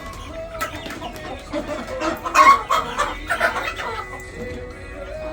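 Hens clucking and calling in a coop. The loudest calls come in a cluster about two to three and a half seconds in.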